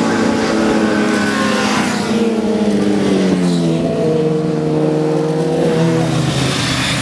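Motorcycle engine running hard, its pitch dropping in steps across several seconds, with a marked shift about three seconds in and a lower note near the end.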